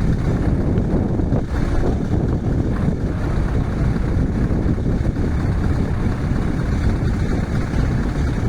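Scania V8 truck engine running steadily under way, a continuous low rumble.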